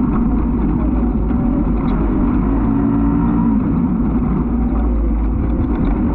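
Off-road race vehicle engine running steadily over a constant low rumble, its note showing most clearly about three seconds in.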